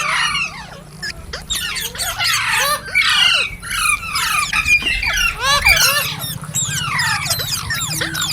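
Green parrots chirping and squawking: many short arching and falling calls overlapping in quick succession, over a low steady hum.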